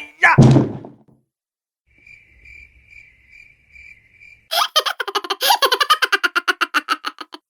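A string of sound-effect clips. It opens with a brief sudden noisy hit. Then comes the stock 'crickets chirping' effect, a high chirp about twice a second over a faint hum. From about halfway a loud, fast stuttering burst of pitched pulses follows, about ten a second.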